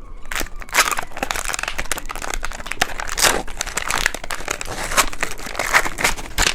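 Plastic candy wrapper crinkling and crackling as it is handled, in dense quick rustles.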